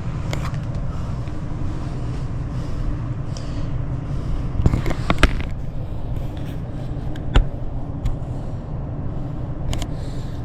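Air conditioning system running: a steady rumble of the blower and moving air with a low hum, broken by a few short clicks.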